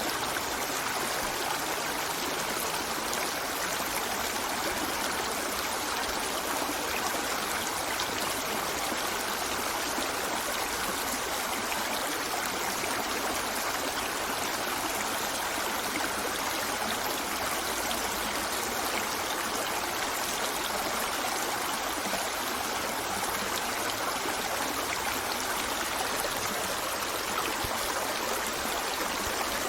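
River water flowing over rocks in a steady, even rush with a trickling, babbling texture and no breaks.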